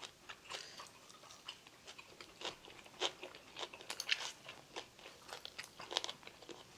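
A person chewing a mouthful of stir-fried pork belly and shishito peppers close to a clip-on microphone. Small crunches and chews come irregularly, several times a second.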